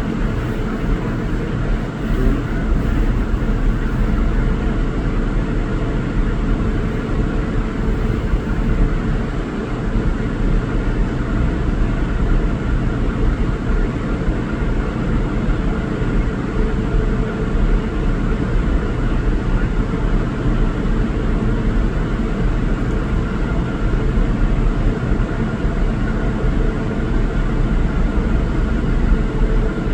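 Steady rumble and hiss of a moving vehicle, even and unbroken, with a faint steady hum over it.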